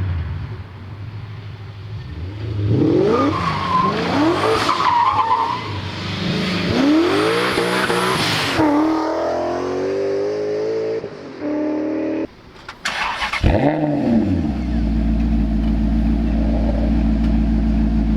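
BMW M5 E39's 4.9-litre V8 revving and accelerating, its pitch climbing and dropping several times through gear changes. About twelve seconds in the sound cuts to a Maserati GranTurismo MC Stradale's 4.7-litre V8, which flares once and then runs as a steady low drone.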